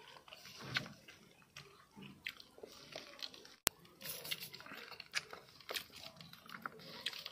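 A man eating rice and paneer curry by hand: quiet chewing and wet mouth sounds, with small irregular clicks from fingers working the food on a steel plate. A single sharp click comes about three and a half seconds in.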